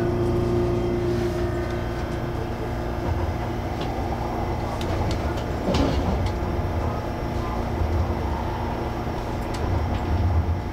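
Inside a CAF-built MTR Airport Express train: a steady hum and low rumble, with a single sharp knock about six seconds in.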